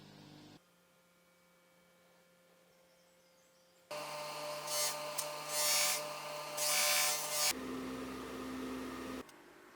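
Small electric power tool motor running in short clips cut together. A faint steady hum gives way about four seconds in to a louder motor whine with three bursts of hissing; near the end it changes to a lower hum that cuts off suddenly.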